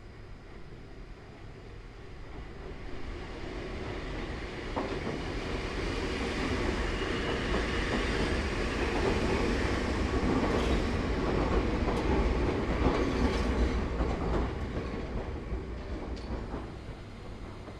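Enoshima Electric Railway (Enoden) electric train passing by: it grows louder over several seconds, clicks repeatedly over the rail joints as it goes past, then fades away.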